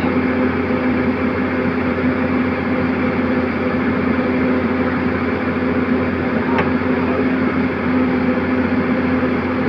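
Excavator's diesel engine running steadily with an even drone, while the crew works on refitting its track chain.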